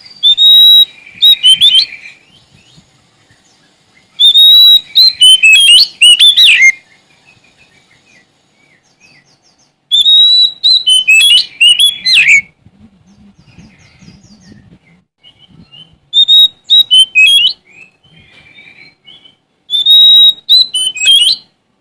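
Oriental magpie-robin (Sumatran kacer) singing loudly in five separate bursts of song a few seconds apart. Each burst mixes clear whistles with quick up-and-down notes and a short harsh buzz.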